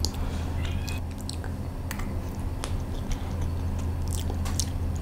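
Close-miked chewing of soft sponge cake topped with cheese, salted egg and pork floss: scattered wet mouth clicks and smacks over a steady low hum.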